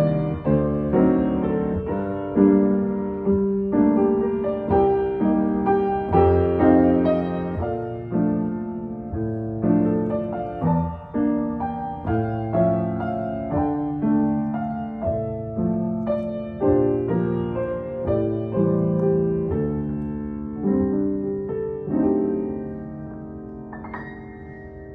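Solo piano playing a melody over chords, growing softer over the last several seconds.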